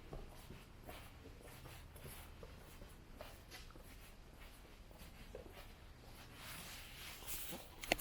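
Quiet wet-street ambience: faint scattered scuffs and taps of footsteps on wet pavement, with a soft hiss swelling about six and a half seconds in and a few sharp clicks at the very end.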